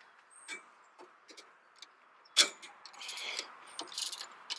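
Metal clinks of a socket wrench on a bolt, a sharp click about two and a half seconds in, then a ratchet clicking in quick runs while a 12 mm bolt is loosened to slacken the engine's drive belt.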